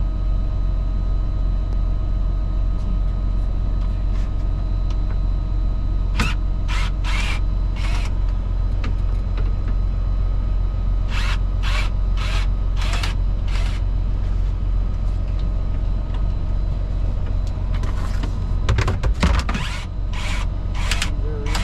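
Semi truck's diesel engine idling, a steady low drone heard from inside the sleeper cab. Over it come three groups of short raspy rattles of hand-tool work, about six seconds in, from about eleven to fourteen seconds, and near the end.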